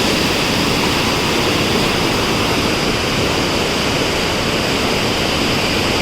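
Floodwater rushing through the open gates of the Koshi Barrage at high flow, a loud, steady roar.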